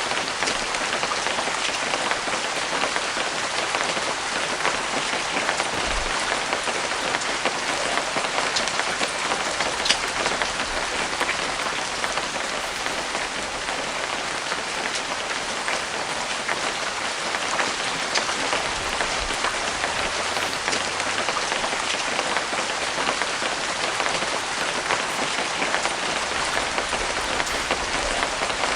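Steady rain falling, with scattered single drops ticking louder above the hiss.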